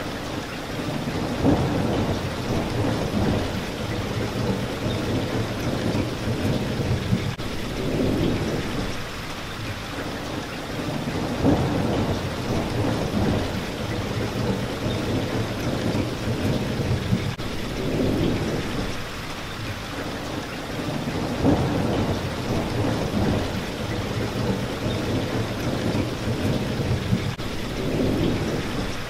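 Steady rain hitting a window pane, with low rumbles of thunder that swell and fade every few seconds.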